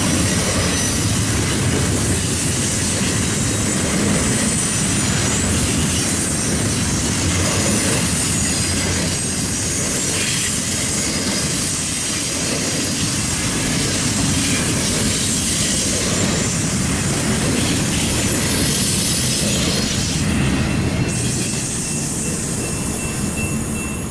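Intermodal freight cars passing at speed: steady noise of steel wheels running on the rails, with clickety-clack from the rail joints. It eases off slightly in the last few seconds as the end of the train goes by.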